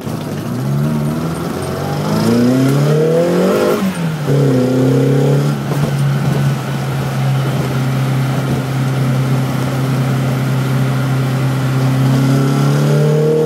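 Classic Mini Clubman's four-cylinder engine heard from inside the car. It revs up for about three seconds, the revs drop near four seconds in, and then it runs at steady revs until falling off at the end. The owner calls the engine rough at the moment, with fouling spark plugs.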